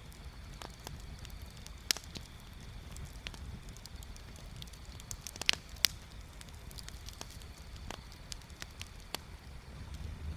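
Wood bonfire crackling, with scattered sharp pops: a loud one about two seconds in and two louder ones close together near the middle, over a low steady rumble.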